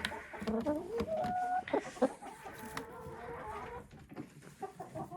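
Laying hens clucking in a coop: a run of short calls, some sliding up or down in pitch, with small scratchy clicks among them.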